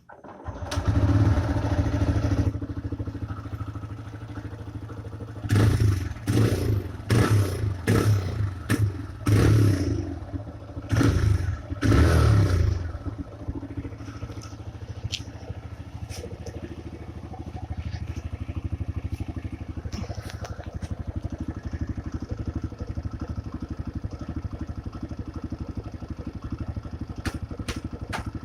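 TVS Raider 125 motorcycle's single-cylinder engine starting up out of silence and running, then revved in about half a dozen short throttle blips before settling to a steady idle.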